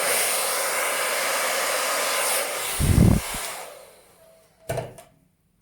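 Hair dryer blowing a steady rush of air to push thinned acrylic paint across the canvas in a Dutch pour, with a low thump about three seconds in. The dryer then winds down and stops, and a short knock follows near the end.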